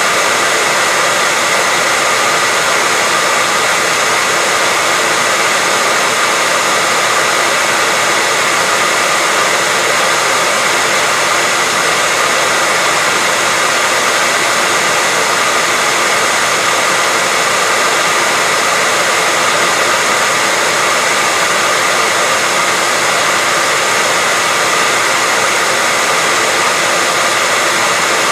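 Hair dryer running steadily: a constant blowing rush with a faint high whine, unchanging throughout.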